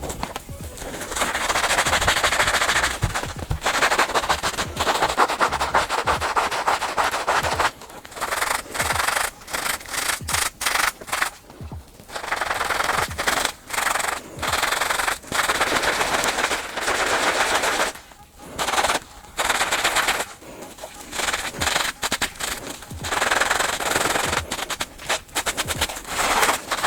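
Hand scrubbing of a sneaker: rapid back-and-forth rubbing strokes in bursts of a few seconds, broken by short pauses.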